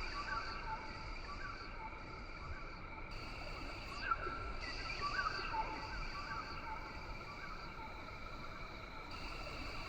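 Rain forest ambience: a steady, high-pitched insect drone in several layers, some of which switch on and off every second or two, with scattered short chirping calls.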